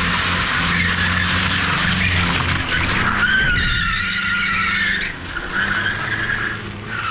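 Car drifting: the engine held at steady high revs under loud tyre noise, with the tyres squealing in a wavering high tone for a couple of seconds past the middle. The engine and tyre noise ease off about five seconds in.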